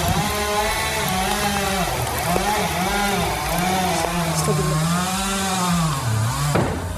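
Husqvarna 395 XP two-stroke chainsaw running at high revs through a cut, its pitch repeatedly dipping and recovering as the chain bogs under load in the wood. It stops near the end.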